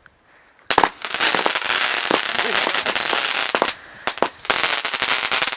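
A firework going off: starting about a second in, a dense crackling hiss lasts about three seconds, then after a short lull another burst of crackling comes near the end.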